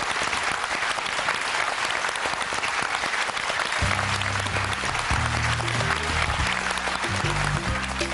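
Studio audience applauding steadily. About four seconds in, music with low held notes that change in steps comes in under the applause.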